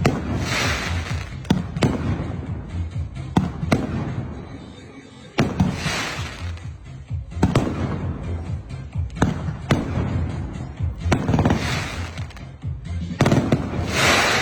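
Fuxing 568-shot fireworks cake firing: about a dozen sharp bangs a second or two apart, several followed by about a second of crackle.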